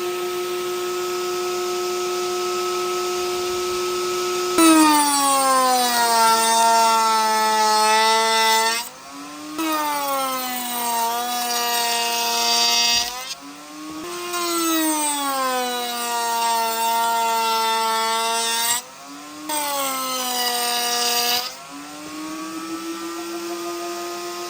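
Electric woodworking power tool cutting wood. It runs free with a steady whine, then makes four loud cutting passes in which the pitch drops as the blade bites into the wood and the motor bogs. The passes are broken by short dips, and it settles back to a steady free-running whine near the end.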